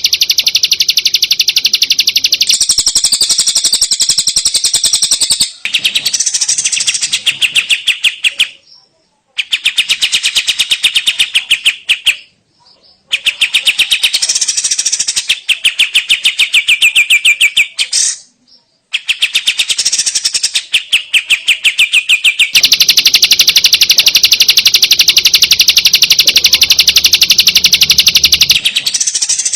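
Long-tailed shrike (cendet) singing a fast, chattering song of rapidly repeated high notes, in stretches of a few seconds broken by abrupt cuts and short silences.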